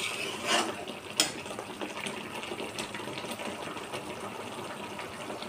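Ground spice paste frying in mustard oil in a kadhai on high flame, sizzling and bubbling steadily as it cooks down until the oil separates. A few clicks of the metal spatula against the pan in the first second or so.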